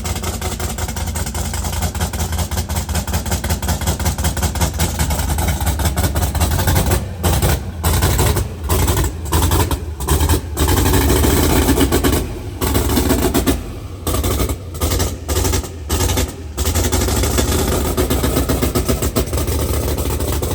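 Twin-turbo LS V8 engine running loud and steady. The sound drops out briefly several times in the middle.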